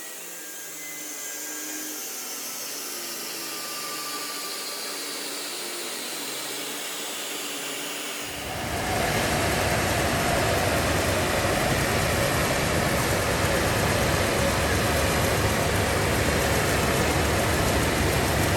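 Engine and turbo noise from a big single-turbo BMW M4, thin and moderate at first, then much louder and fuller from about eight seconds in, holding steady.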